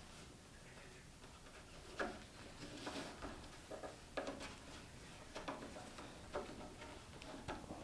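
Electrical cable being fed through channels in a workbench frame: faint, irregular scrapes and knocks as the cable is pushed and handled, about half a dozen louder ones spread through.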